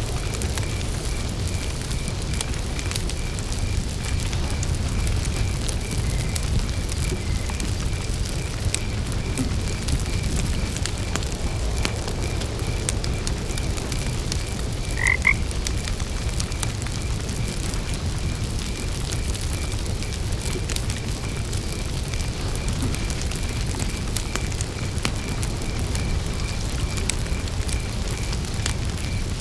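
Campfire burning with a steady low rumble and scattered small crackles. Crickets chirp in a fast, even pulse throughout. A single short frog croak stands out about halfway through.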